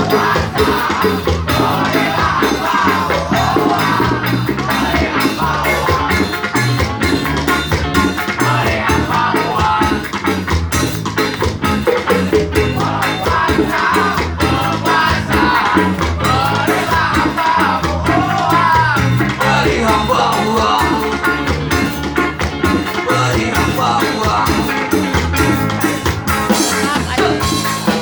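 Reggae band music in an instrumental passage: a wavering melodic lead over a steady bass and drum beat.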